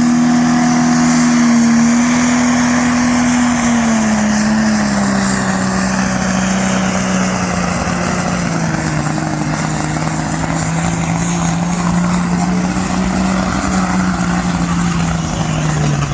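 Ford-engined custom pulling tractor running flat out as it drags a weight-transfer sledge down the pulling track, its engine note sinking steadily over the run as the sledge's load builds and drags the revs down.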